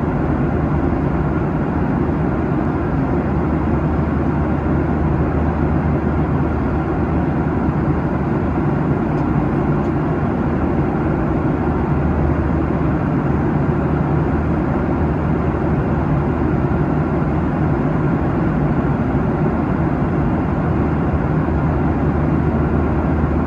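Steady cabin noise of a Boeing 737-800 at cruise, heard from a window seat in the cabin: the rush of airflow over the fuselage and the drone of its CFM56-7B turbofans, even and unchanging.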